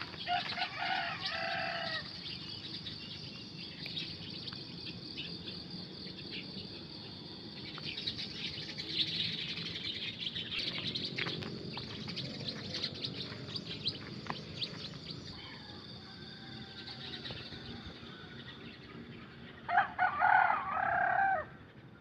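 Many small birds chirping steadily in a morning chorus, with a rooster crowing twice, once at the start and again, louder, near the end.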